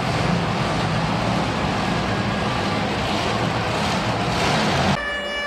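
Monster truck engine running loud and steady in an arena. It cuts off abruptly near the end and is replaced by a steady pitched tone.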